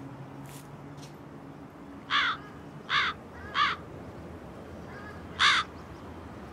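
Hooded crow cawing: three harsh caws about half a second apart starting about two seconds in, then a single louder caw near the end.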